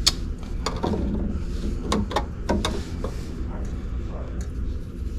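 Several sharp clicks and knocks in the first three seconds, over a steady low hum.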